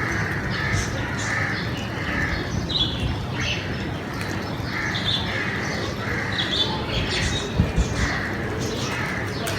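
Birds chirping and calling over and over, short repeated calls with higher chirps in between, over a steady background murmur; two low knocks about three-quarters of the way through.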